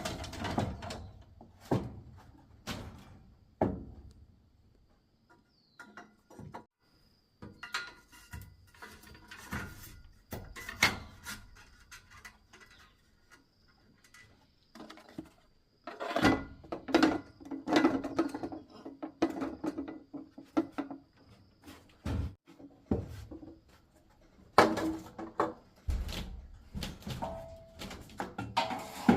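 Irregular knocks and clatter of wooden things being handled, with quiet gaps between; a faint steady high tone runs through the middle.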